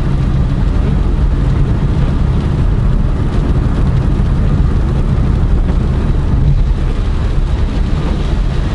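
Steady low rumble of a car's tyres and engine heard inside the cabin, driving on a rain-soaked road with standing water on tyres worn nearly bald, which the driver says are hydroplaning.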